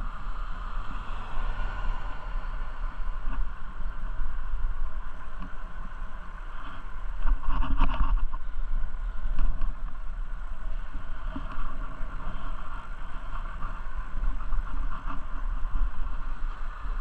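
Wind rumbling on the microphone of a camera on a moving bicycle, over a steady outdoor hiss, with a louder rush of noise about seven to eight seconds in.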